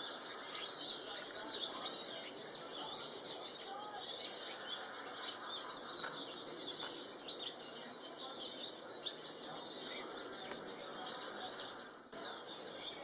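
Goldfinches chirping and twittering in many short, high calls over a steady background hiss.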